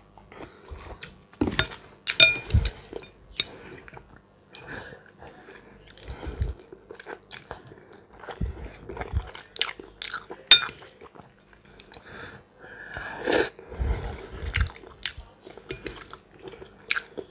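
A person chewing and eating macaroni with fried pork close to the microphone: irregular wet chewing and lip smacks with occasional sharp clicks.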